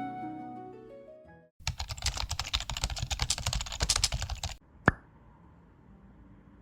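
Soft music fades out, then a quick, dense run of clicks and taps lasts about three seconds. It is followed by one sharp tap.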